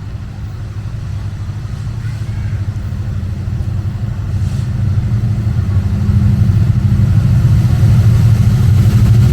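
Diesel locomotive engine running with a steady low hum that grows steadily louder as the train approaches.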